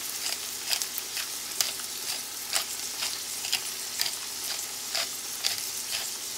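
Shredded turkey, green peas and onion frying in oil in a wide stainless steel pot: a steady sizzling hiss broken by frequent sharp clicks, about two a second.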